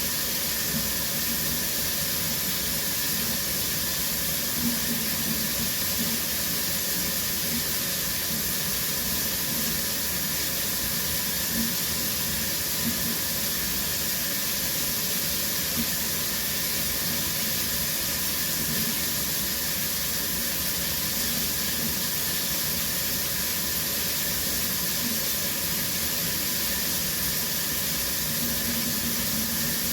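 Shower running steadily: an even hiss of spray falling onto the tub or floor, with faint small spatters now and then.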